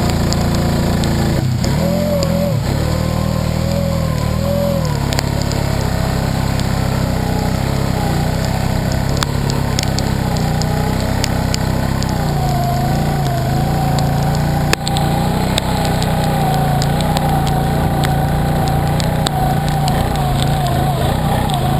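A vehicle engine running steadily, its revs rising and falling several times, with one sharp click about two-thirds of the way through.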